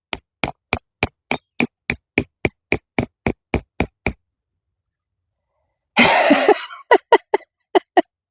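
A rock hammering a metal tent stake into hard ground: a quick, even run of about fifteen ringing strikes, then a short rough scrape and a few more strikes near the end. The stake is bending under the blows.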